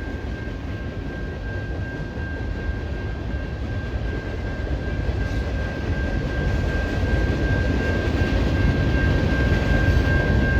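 Freight train cars rolling past: a steady rumble of steel wheels on the rails that slowly grows louder, with a thin, steady high whine running through it.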